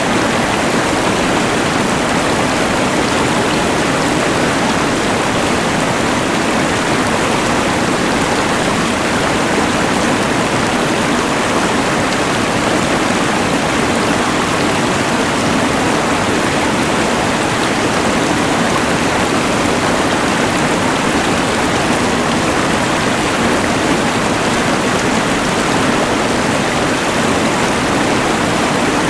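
Rushing mountain river blended with the steady hiss of a LectroFan white noise machine: an even, unbroken rush of water and noise with no changes.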